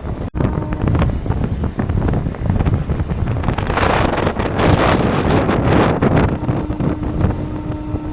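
Suburban electric local train running along the track, with heavy wind on the microphone. The rattle grows louder for a couple of seconds in the middle.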